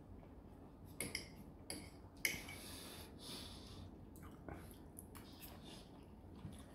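Faint sounds of a man eating a bite of chow mein sandwich: chewing and breathing through the nose, with three soft clicks in the first two and a half seconds.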